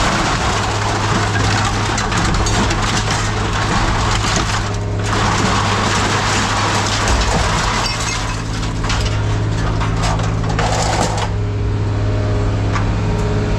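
Scrap metal crunching, cracking and clattering over a steady low machine drone, a long jumble of breaking and crushing noises that stops near the end.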